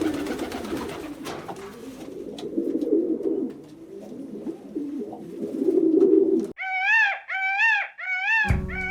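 Low, repeated bird calls. About six and a half seconds in they stop, and four short animal calls follow, each rising and then falling in pitch.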